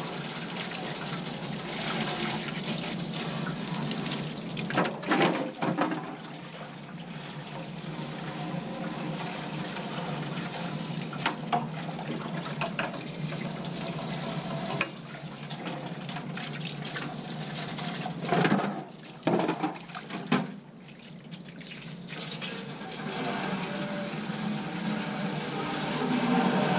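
Water spraying steadily from a hose nozzle, rinsing built-up dirt out of an HVAC blower assembly, with a few short knocks and clatters a few seconds in and again past the middle.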